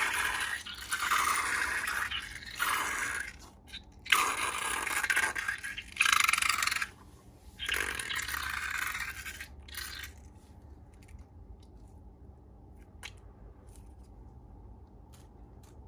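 Slime being scraped and worked by hand: scraping, rustling noises in bursts of one to three seconds. After about ten seconds it goes quieter, with only a few faint clicks.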